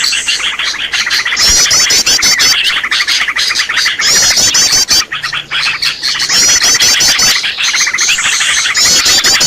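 A busy chorus of small birds chirping and twittering, used as a lure call for small birds. Every couple of seconds it is broken by a short burst of very high, rapid repeated notes.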